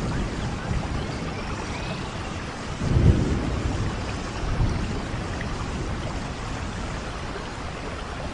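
Steady rain, with a brief low rumble of thunder about three seconds in.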